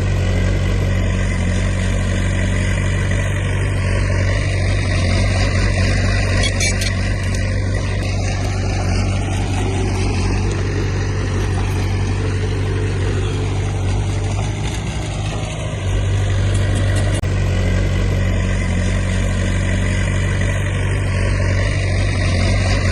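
Heavy diesel engine of an earthmoving machine (bulldozer or dump truck) running steadily. The low engine note weakens briefly about two-thirds of the way through, then comes back.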